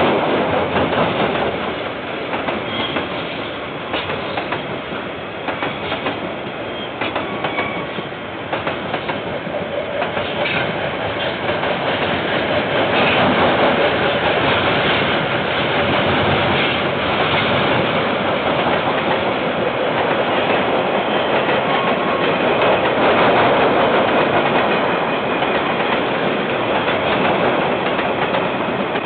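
KiwiRail train wagons rolling past on the rails: a steady rumble of wheels with clicks over the rail joints and a few brief wheel squeals, growing a little louder partway through.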